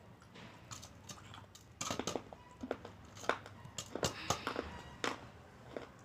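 Eating sounds: irregular clicks, taps and smacking, growing busier and louder about two seconds in.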